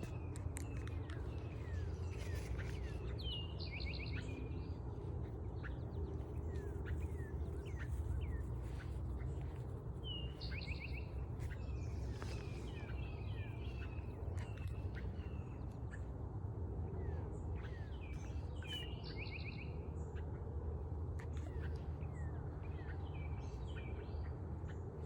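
A songbird singing short phrases of quick, high descending notes, repeated every few seconds, over a steady low rumble of background noise.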